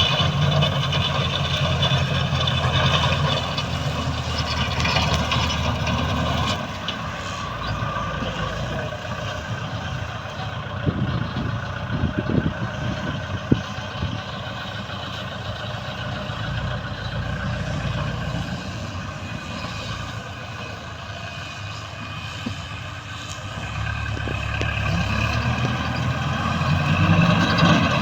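Tractor engine running steadily while mowing, with steady higher tones above its hum. It is louder at first, drops after about six seconds, and builds up again over the last few seconds.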